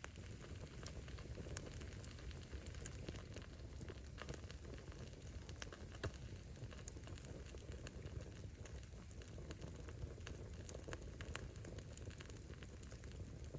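Wood bonfire burning: a steady low rush of flames with scattered crackles and pops of burning firewood, one sharper pop about six seconds in.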